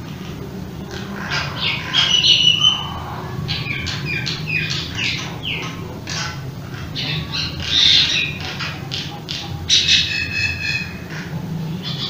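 Birds chirping and squawking in quick short calls, several falling in pitch, over a steady low hum.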